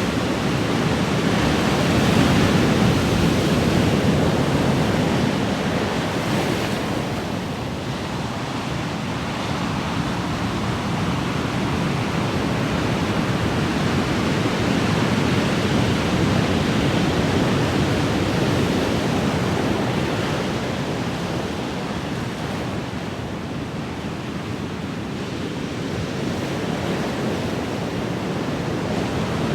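Ocean surf: a steady rush of breaking and washing waves that swells and eases slowly, about twice.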